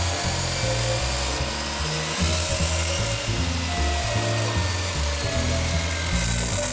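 Background music with a bouncing bass line laid over a masonry chop saw running with a silent-core diamond blade and cutting through a block of hard stone.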